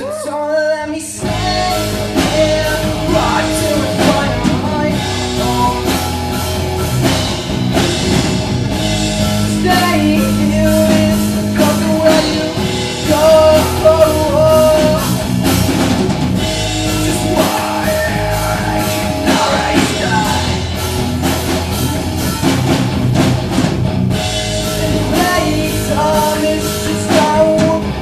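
Live rock band playing with drum kit, guitars and a singer; the full band comes in about a second in after a held guitar chord.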